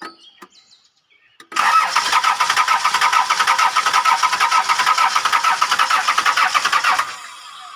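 Starter motor cranking a worn, cold Toyota 2C four-cylinder diesel engine for about five and a half seconds, with an even, rapid pulse of compression strokes, and the engine never firing. The cranking starts about a second and a half in and stops abruptly: the worn 2C's hard cold start, refusing to catch.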